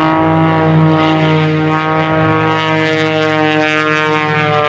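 Pitts S2S aerobatic biplane's piston engine and propeller running at power, a loud steady buzzing drone whose pitch sags slowly over a few seconds.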